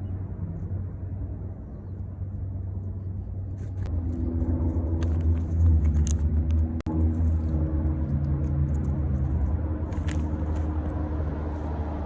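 A motor vehicle's engine running close by: a steady low rumble that swells into a louder hum with several pitches about four seconds in. Scattered light high clicks sound over it.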